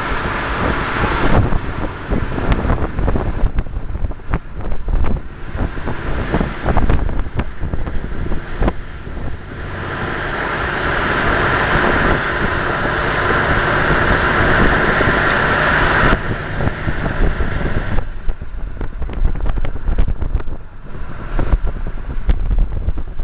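Rain and hail hitting a moving car during a storm, many sharp ticks over a loud hiss of road and wind noise. About ten seconds in, a steadier louder hiss swells for several seconds, then drops back.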